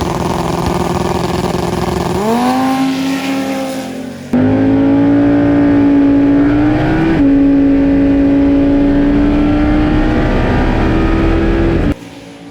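Twin-turbo Dodge Viper V10 at full throttle on a drag strip pass, its engine note climbing and levelling off in steps through the gear changes. The sound cuts off abruptly near the end.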